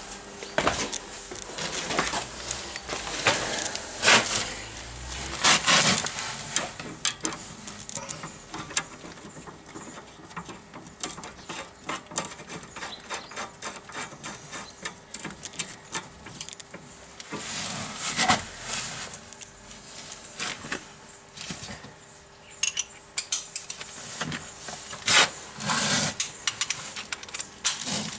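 Hand tools working the nuts on a new front sway bar link: a ratchet wrench clicking in quick runs and metal tools clinking, with a few louder knocks.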